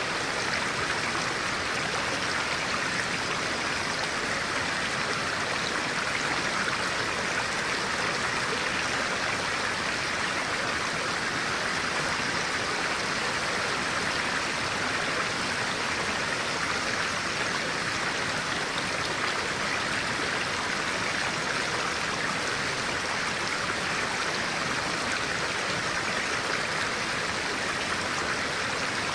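Clear stream of water flowing steadily, a continuous even rush of running water.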